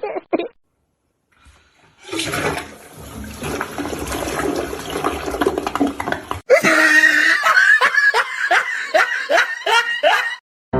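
A rush of water for about four seconds that cuts off suddenly, followed by a person laughing in a quick run of short falling 'ha' sounds.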